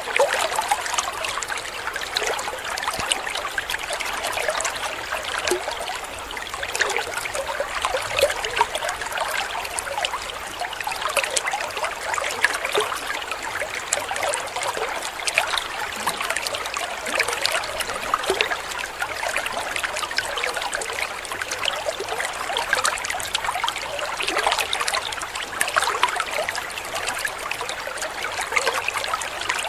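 Water from a small waterfall trickling and splashing steadily.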